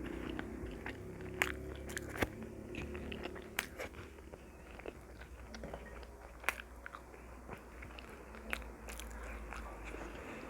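Close-miked eating: a person biting and chewing food, with scattered sharp crunches and wet mouth clicks.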